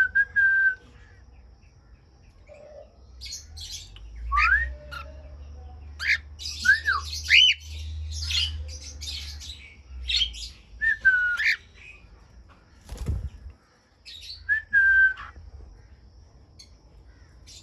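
Aviary birds, cockatiels among them, calling: repeated whistled notes that rise and fall or hold level, mixed with fast high chirps and squawks. A single dull thump about two-thirds of the way through.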